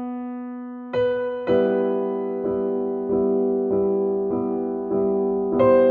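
Background piano music: slow, gentle piano notes and chords struck about every half second to a second, each ringing and fading.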